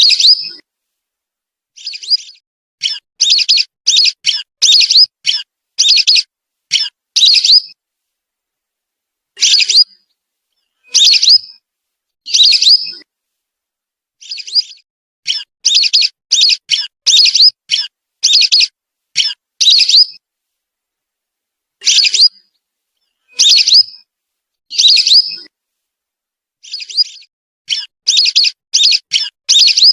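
Whistling duck (belibis) calls played as a bird lure: short, high whistled notes repeated in quick runs of several, with gaps of a second or two between runs.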